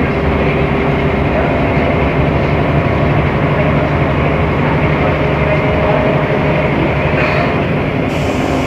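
Mercedes-Benz O500MA articulated bus running along the road, a steady engine hum over dense road rumble.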